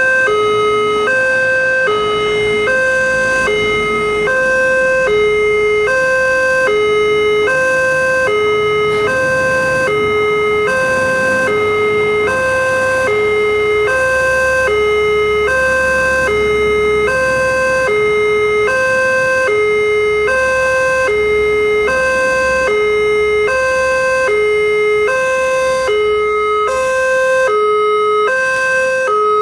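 Railway level-crossing warning alarm sounding continuously: an electronic two-tone signal alternating evenly between a higher and a lower note, switching about once a second, signalling that a train is approaching and the crossing is closed.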